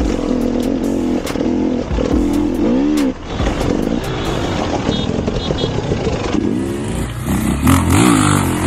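Off-road vehicle engine revving, its pitch rising and falling repeatedly as the throttle is worked. About six and a half seconds in the sound changes to another engine revving over a rougher, noisier background.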